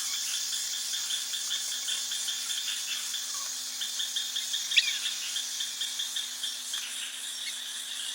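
A bird's rapid, dry rattling call, repeated over a high hiss, with one short rising chirp about five seconds in.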